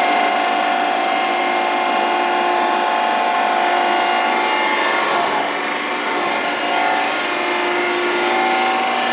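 1974 Rosa RTRC 1000 surface grinder running, its 400 mm grinding wheel at 1450 rpm grinding with a steady whine over a rasping noise. The whine fades and shifts about five seconds in, then returns about two seconds later.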